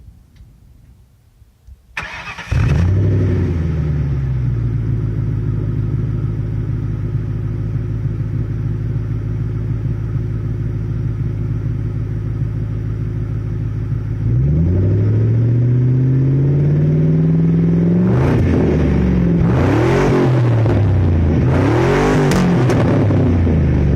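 1996 Ford Mustang GT's 4.6-litre V8, with a lightly modified exhaust, heard from outside the car: it cranks and starts about two seconds in, its high first idle settling down, then idles steadily. About fourteen seconds in the revs are raised and held, then it is revved up twice and let fall back.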